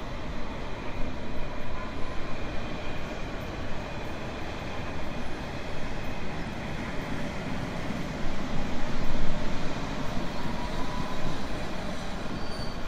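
Steady rumble and rattle of a train riding on the rails, with faint brief wheel squeals, a little louder for a couple of seconds past the middle.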